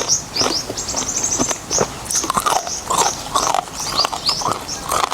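Animal calls: many short, high chirps repeating quickly, mixed with lower falling cries.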